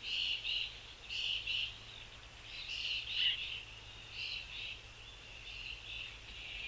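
Small birds calling: a series of short chirps, often in quick pairs, getting fainter near the end.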